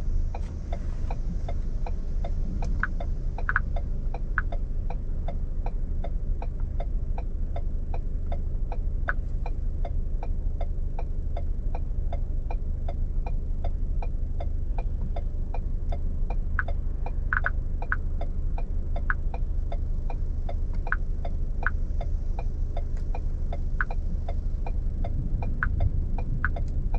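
Inside a vehicle: a steady low rumble, with an even, fast ticking of about three clicks a second running through it.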